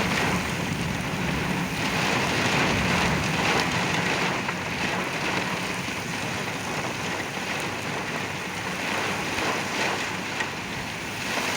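Heavy rain and strong gusty wind of a derecho thunderstorm, a steady rushing noise of rain pelting the truck, heard from inside the cab.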